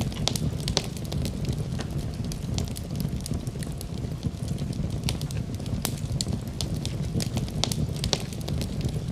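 Wood fire in a fireplace crackling: frequent sharp pops and snaps at irregular moments over a steady low rumble of the burning fire.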